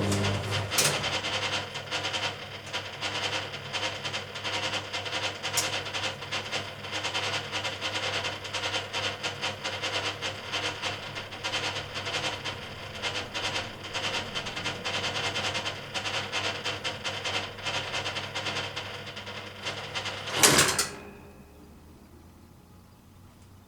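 Hoover Keymatic A3112 washing machine: a steady motor hum stops just after the start, then about twenty seconds of rapid, irregular clicking and rattling, ending in one loud clunk, after which it goes quiet.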